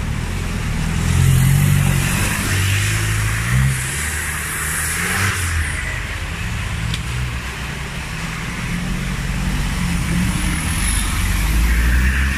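An off-road 4x4's engine revving under load, its pitch rising and falling as the throttle is worked, with a steady hiss above it.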